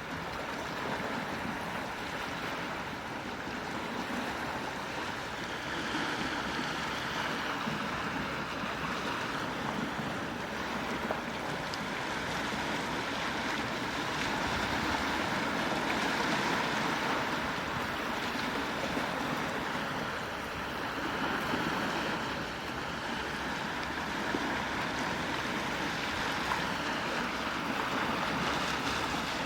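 Quiet waves washing onto a shore: a steady wash of water that swells and eases every several seconds.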